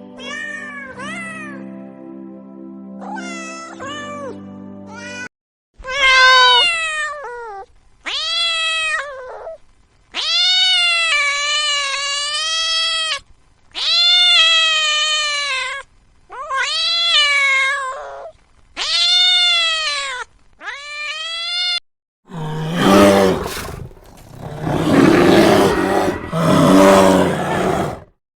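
A cat meowing over and over: about eight long, drawn-out meows a second or two each, the pitch arching and dropping at the end. Before them, background music plays with short chirping calls over it. Near the end comes a louder, rougher, noisier call lasting several seconds.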